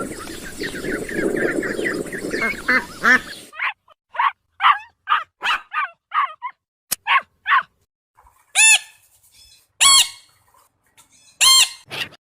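Birds calling: a dense chorus of short calls for the first few seconds, then a run of quick separate calls, two or three a second, and three louder drawn-out calls near the end.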